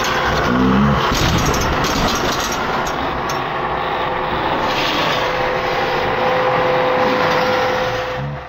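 iRobot Roomba robot vacuum running, its motors and brushes making a loud, steady mechanical noise with scattered knocks and clatter from the bolted-on steel armour; a steady hum comes in about halfway through, and everything cuts off suddenly at the end.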